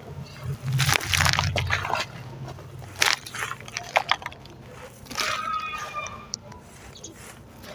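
Hand-made sand-cement chunks being crumbled, a mix of dry and damp pieces, giving gritty crunching and crackling in irregular bursts. A short high whine comes in about five seconds in.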